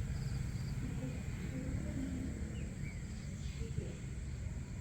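Outdoor dawn ambience: faint short bird chirps and a brief falling call over a low steady rumble and a steady high-pitched drone.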